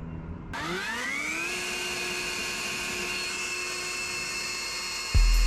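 A cordless power tool's electric motor spins up with a rising whine, then runs at a steady high whine. A loud low boom comes in near the end, just as the motor starts to slow.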